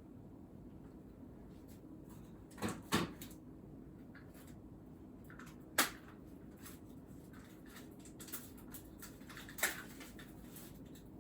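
A few short, light knocks and clicks of things being handled on a desk, four of them louder than the rest, over a low steady room hum.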